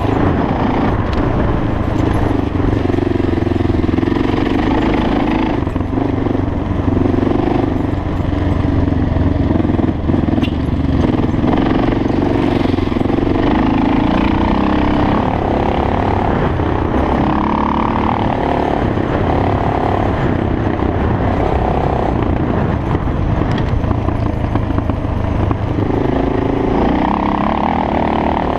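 Suzuki DR650's single-cylinder four-stroke engine running under load as the dirt bike is ridden along a trail. Its note rises and falls with the throttle.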